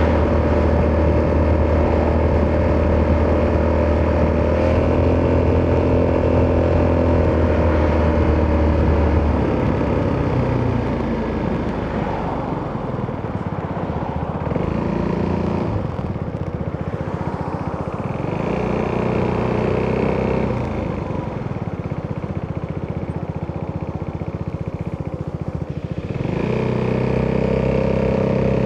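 Italjet Dragster 200's single-cylinder four-stroke engine through an Akrapovic exhaust, riding along. The note holds steady for about the first nine seconds, then drops off to a lower, uneven run with a couple of short rises, and picks up to a steady note again near the end.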